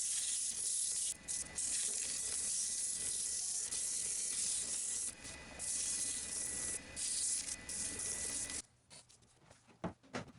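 Steady hissing scrape of a tool held against wood spinning on a lathe, with a faint steady whine. It breaks off briefly a few times and stops about eight and a half seconds in.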